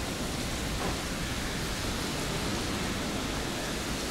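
Heavy rain pouring down during a rainstorm, a steady hiss heard through glass windows.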